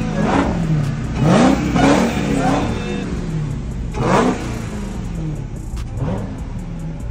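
Dodge Hellcat's supercharged V8 being revved in short blips, the engine pitch sweeping up and dropping back about five times, the last one about six seconds in.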